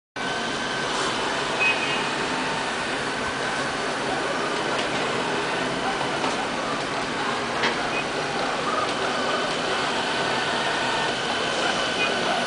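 LL-A320 robot vacuum cleaner running: a steady whir from its suction fan and brushes, with a high steady whine, and a light click about a second and a half in and another near eight seconds.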